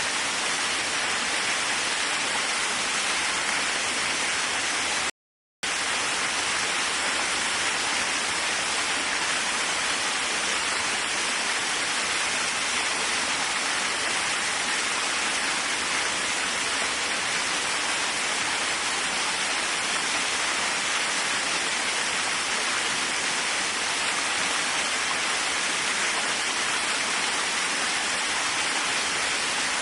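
Waterfall rushing in a steady, even roar of falling water. The sound cuts out completely for about half a second once, about five seconds in, then resumes unchanged.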